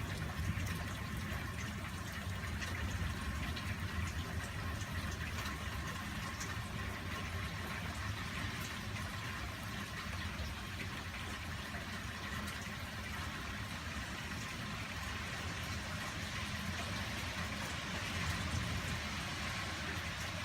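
Steady rain falling during a thunderstorm, a dense hiss with scattered drop ticks, over a low steady rumble.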